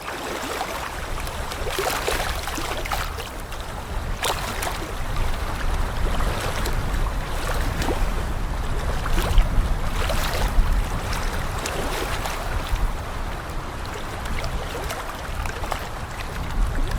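Moving water splashing and rushing, with a low, uneven rumble of wind.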